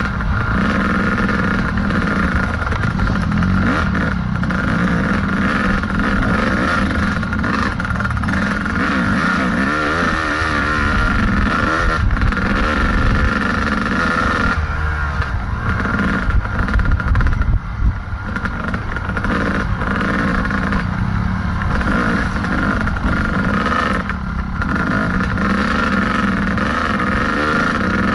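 Kawasaki KDX220 two-stroke dirt bike engine running hard on the trail, its pitch rising and falling as the throttle is worked. It briefly drops off a few times midway and again about three quarters through.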